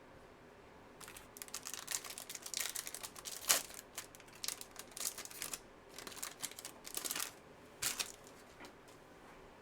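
Trading cards being slid and flicked against one another while sorting through a pack: an irregular run of quick clicks and rustles, starting about a second in and stopping near the end.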